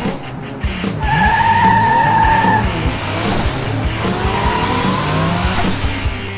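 Race car engines revving and passing, with a tyre squeal held for about a second and a half about a second in and a fainter one later, over background music with a beat.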